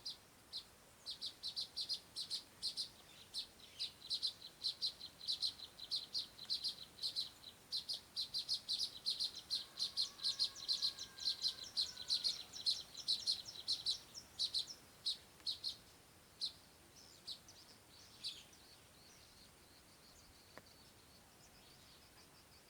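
A small bird chirping in a long rapid series of short, high chirps, about four a second, which thins out to a few scattered chirps after about sixteen seconds.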